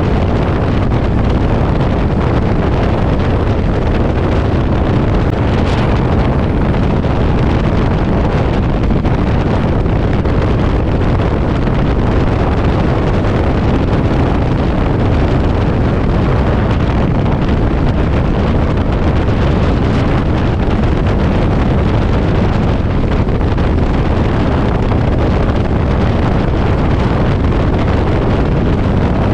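Heavy wind buffeting the microphone of a Yamaha V-Star cruiser motorcycle at road speed in strong gusts. It makes a loud, steady, rumbling rush in which no clear engine note stands out.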